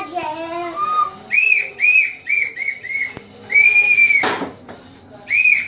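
A string of short, high whistled chirps, each rising and falling in pitch, with one longer held note about three and a half seconds in, followed at once by a brief noisy burst.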